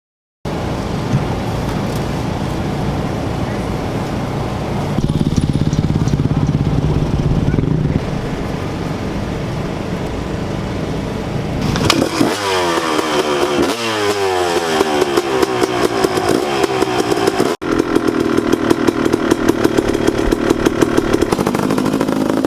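Motocross bike engines running, then accelerating hard with several overlapping rising engine notes about twelve seconds in. After a sudden break the engines keep running at speed with a fast pulsing beat.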